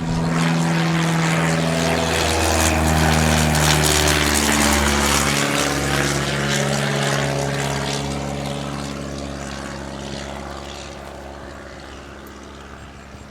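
The piston engine and propeller of a CubCrafters CC19-180 XCub light aircraft running as it flies past. The sound is loud for the first few seconds, then fades steadily over the second half as the aircraft moves away.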